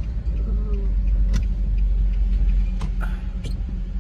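Steady low rumble of a car driving, heard from inside the cabin, with a few sharp clicks.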